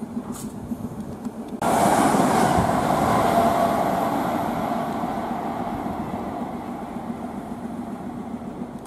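Electric multiple-unit trains: first a steady low hum from a Class 315 unit, then, about one and a half seconds in, the noise jumps abruptly to the loud rumble of a train on the rails, which slowly fades, as a Class 321 unit comes into the station.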